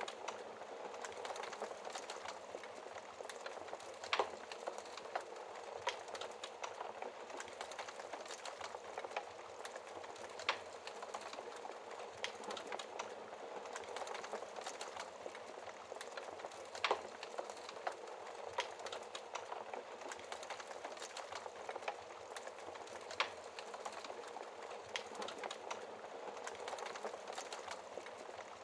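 Wood fire crackling steadily, with many small snaps and a few sharper pops, the loudest about four, ten, seventeen and twenty-three seconds in.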